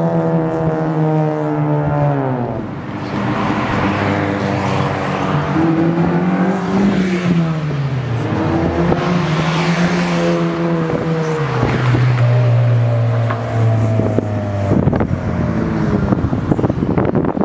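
Car engine and Magnaflow-muffled exhaust under way. The revs hold steady, then drop several times as it shifts or lifts off, climbing once in between. Some rough crackle and wind noise comes in near the end.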